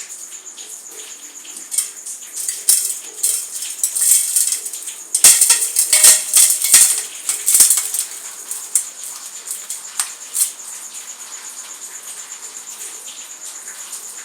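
Dry material crumbling and crunching, a dense run of crackling clicks that grows loudest a little past the middle and then thins out. A steady high-pitched trill runs underneath.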